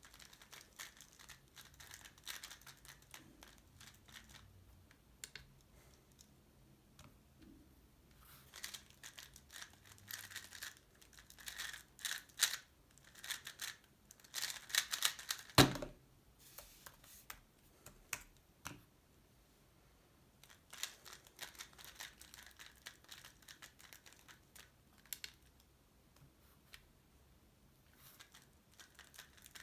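Tornado V3 Pioneer 3x3 speed cube being turned by hand: quick runs of plastic clicking and rattling, densest in the middle. A single sharp knock comes about sixteen seconds in.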